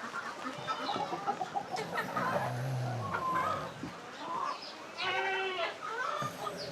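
Barnyard animals calling: hens clucking, with a loud bleat about five seconds in.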